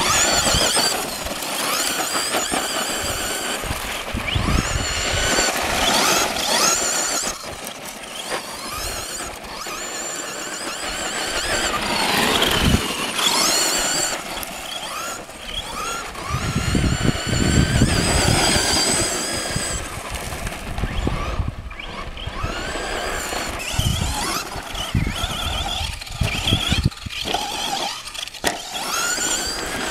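Brushless electric motor of a Duratrax Evader RC monster truck driving hard, its high-pitched whine rising and falling again and again with the throttle. Low rumbling from the tyres and chassis comes through in stretches, loudest around the middle.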